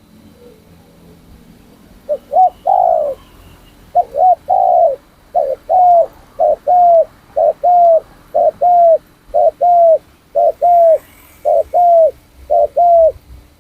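A captive spotted dove cooing: a short note followed by a longer arched coo, repeated about once a second, starting about two seconds in.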